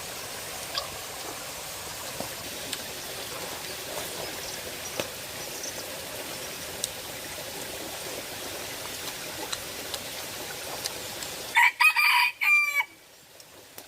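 A rooster crows once, loud, lasting just over a second, near the end, over a steady rushing background.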